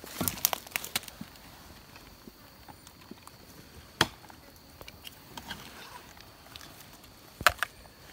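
Sharp woody snaps and cracks: a quick cluster in the first second, a single loud one about four seconds in, and two close together near the end, as of branches or twigs being broken or chopped.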